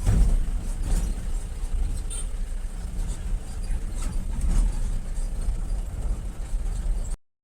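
Steady low rumble of a vehicle travelling on a rough road, with scattered faint knocks. The sound cuts out completely just before the end.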